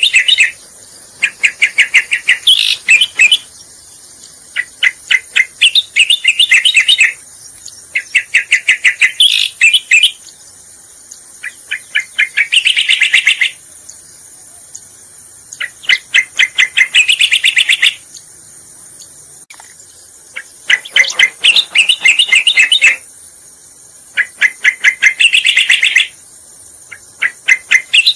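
Looped lure recording of a cica koreng (cucak koreng) bird song: phrases of about 2 s of rapid chattering notes, repeated about seven times with short pauses between, over a steady high hiss.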